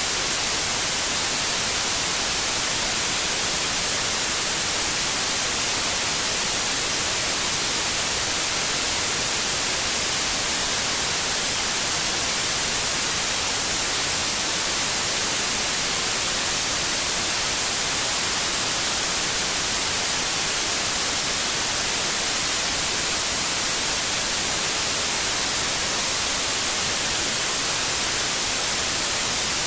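Steady, unchanging white noise, a hiss that is brightest in the upper range.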